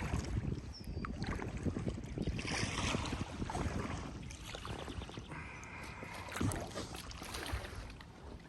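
Kayak paddling on a river: water splashing from paddle strokes, with wind rumbling on the microphone.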